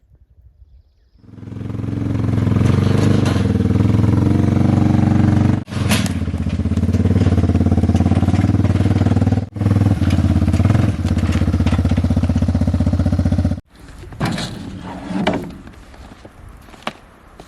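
An engine running steadily and loudly, its sound broken off sharply twice, then cut off about thirteen seconds in. A few fainter knocks follow.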